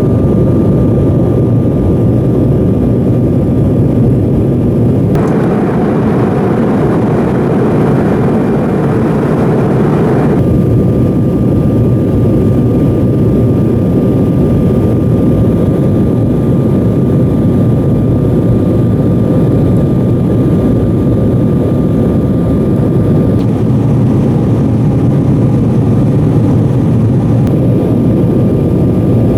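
Cabin noise of an Embraer 190 airliner: the jet engines run with a loud, steady rumble and a thin steady whine above it. About five seconds in, a hiss rises for around five seconds, then stops abruptly.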